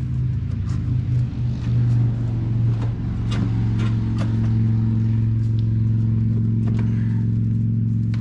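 A motor running with a steady low hum that firms up and gets louder about two seconds in, with scattered sharp clicks over it.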